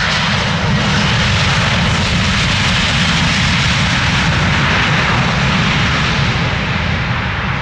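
Aircraft engines of a plane passing close by on the runway. The engine noise is loud and steady, builds about a second in, and eases near the end.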